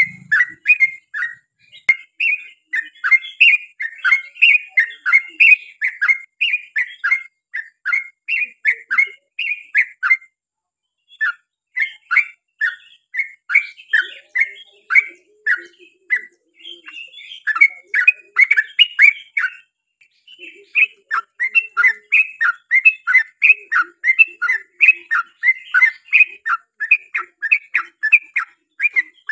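Yellow-vented bulbul (trucukan) singing a long, rapid chattering run of short whistled notes, several a second, with a few brief pauses.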